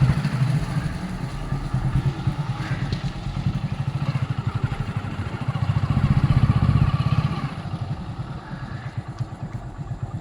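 Motorcycle engine running with a steady low pulsing, getting louder for a couple of seconds around the middle and then easing off.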